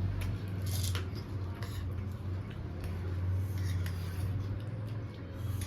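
Eating sounds close to the microphone: a few separate crisp crunches and chewing noises, over a steady low hum.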